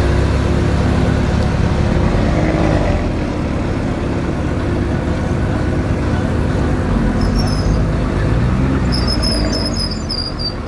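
Tuned Volkswagen Golf 7 R's 2.5 TFSI five-cylinder engine (Audi RS3 DAZA unit with a TTE700 turbo) running steadily at low revs as the car rolls slowly.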